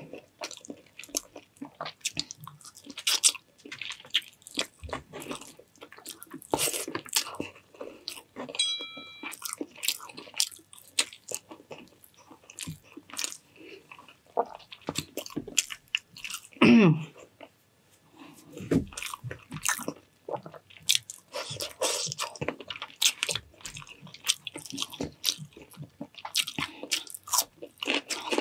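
Close-miked eating of Filipino breakfast foods: steady chewing with many short, crunchy bites. A brief ringing clink comes about a third of the way in, and a short, loud, low sound falling in pitch comes a little past the middle.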